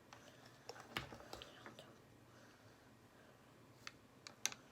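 Faint, scattered clicks and taps of plastic toothbrushes and a toothpaste tube being handled, the plainest about a second in and a few more near the end.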